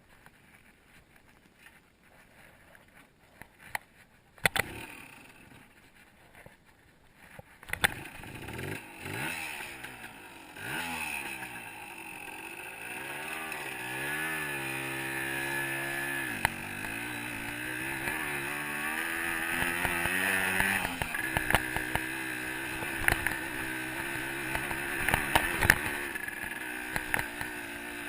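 A few sharp knocks over a quiet stretch, then about eight seconds in a 125cc two-stroke dirt bike engine comes up, revving in rising and falling sweeps before running on more steadily, with clattering and wind noise over it.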